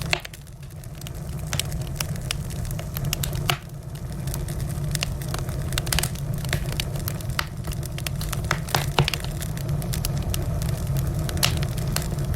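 Wood fire crackling: frequent sharp pops and snaps over a steady low rumble of burning. The rumble drops briefly just after the start and again at about three and a half seconds.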